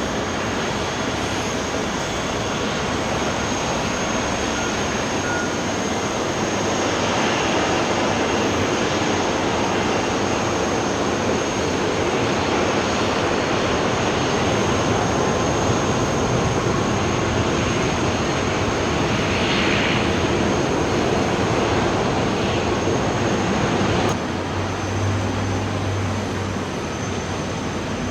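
Jet airliner engines running: a loud, steady roar that swells slightly through the middle and drops suddenly about 24 seconds in, leaving a lower hum.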